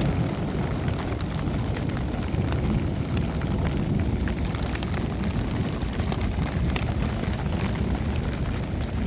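Heavy rain falling steadily, with many sharp drop ticks over a constant deep rumble.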